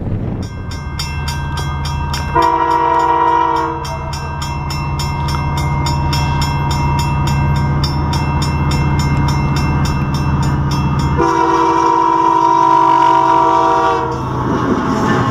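Diesel locomotive running steadily and sounding its air horn: one short blast about two and a half seconds in, then a longer blast from about eleven to fourteen seconds. A fast, even ticking, about five a second, runs alongside until the second blast.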